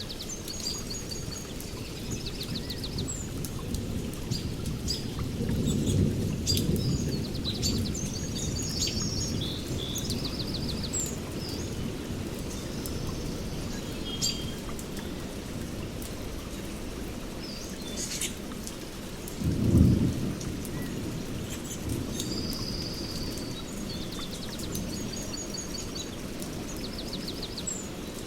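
Steady rain with low thunder rumbling, swelling around six seconds and a louder, shorter rumble a little before the end of the second third. Birds chirp and trill over it several times.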